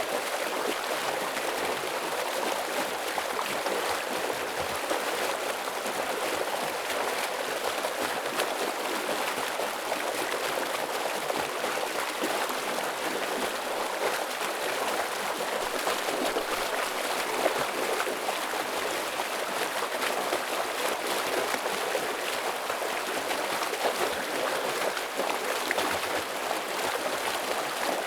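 A fast-flowing stream rushing and splashing over rocks, a steady, dense sound of running water with no breaks.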